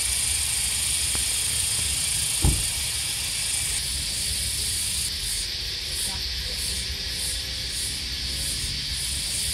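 Cicadas calling: a steady high-pitched buzz that turns, about four seconds in, into a pulsing rhythm of roughly two pulses a second. A single short thump sounds about two and a half seconds in.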